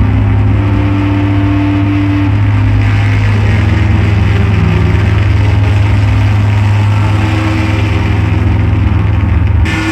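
Loud electronic drone-noise music: a heavy, steady low hum under a grainy wash of noise, with sustained tones shifting in and out. Near the end the upper hiss cuts off abruptly and new held tones take over.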